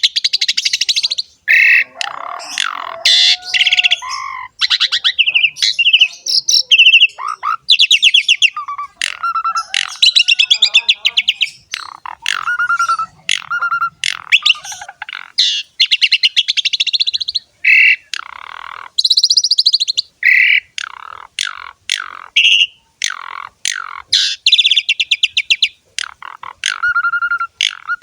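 Javan pied starling (jalak suren) singing continuously: fast trains of rapid chattering notes alternating with short clear whistles and other varied phrases, with only brief pauses.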